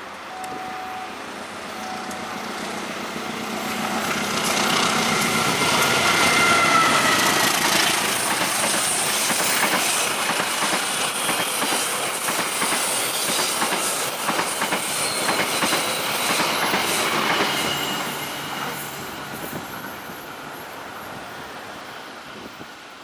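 A train passing close by: its wheels clatter over the rail joints, with a brief high wheel squeal as it comes nearest about five seconds in. It grows louder over the first few seconds, runs steady through the middle, and fades away near the end.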